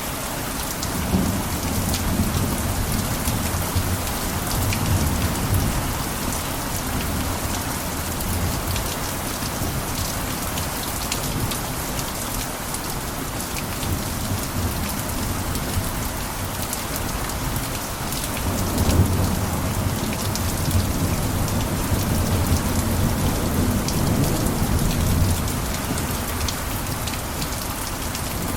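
Steady heavy rain falling on a roof, a dense patter of drops over an even hiss. Low rumbles come in about a second in and again from about two-thirds of the way through.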